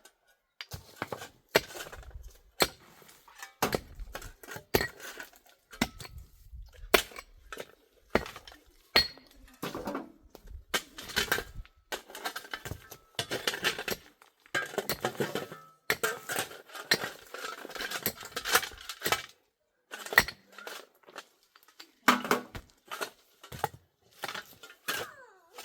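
Irregular clinks and knocks of hard objects being handled, like dishes or pots, with short pauses between them.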